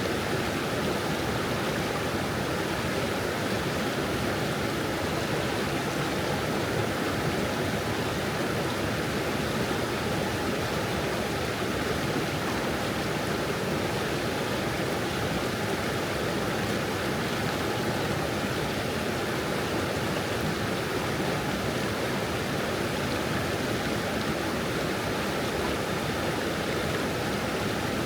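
Stream water flowing over stones, a steady, even babbling rush.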